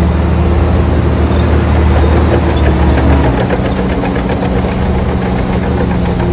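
Heavy earthmoving machine's diesel engine running loud and steady. About three seconds in, its deep low drone drops away and the engine note shifts.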